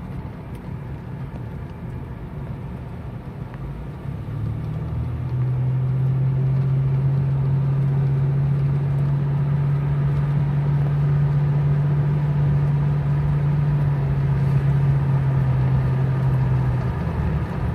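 A car's 3.8-litre V6 engine and road noise heard from inside the cabin with the windows open. The drone swells about four seconds in as the car is given gas, holds steady, then drops away near the end where the car jerks. That jerk is the hesitation under throttle that the owner guesses comes from a bad crank sensor.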